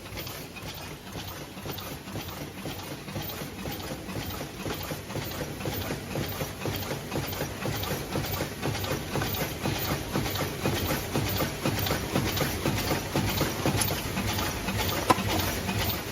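High-speed ultrasonic paper cup making machine running: a steady mechanical clatter with a regular clacking about twice a second, in time with its forming cycle, and one sharper click near the end.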